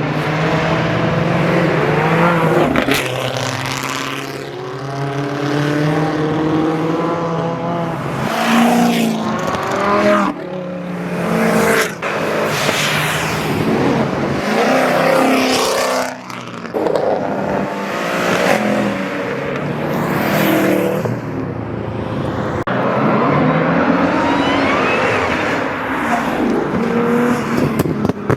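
Car engines revving and accelerating past one after another, their pitch climbing and falling again and again, with tyre noise in the loudest surges.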